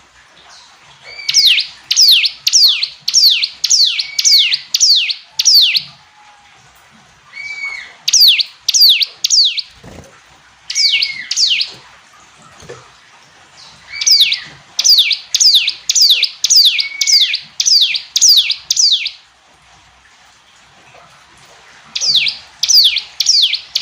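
Ciblek gunung, a prinia, singing. Loud, sharp down-slurred chirps come about three a second in runs of several notes, with short pauses between the runs, and some runs open with a lower upturned note.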